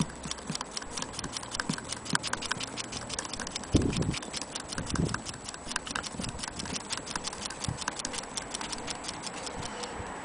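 Antique Willcox & Gibbs sewing machine mechanism running, with rapid, even ticking and two dull thumps near the middle.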